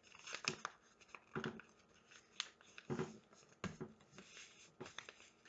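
Construction paper being folded and creased by hand: faint, irregular rustles and crinkles.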